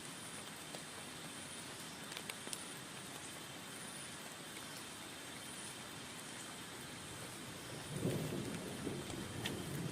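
Steady heavy rain on a tent with scattered sharp drop ticks; about eight seconds in, a low rumble of thunder swells up.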